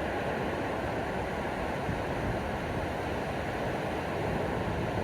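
Ocean surf washing onto the beach in a steady, even rush.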